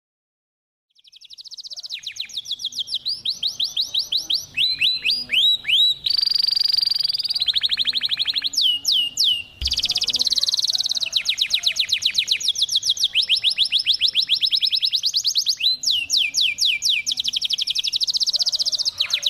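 Domestic canary singing a rolling song: rapid runs of repeated high, falling notes, switching from one trill to the next every second or two, starting about a second in.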